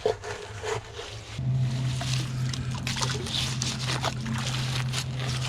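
Cement mixer running with a steady low hum that starts about a second and a half in, with scattered scrapes and knocks over it.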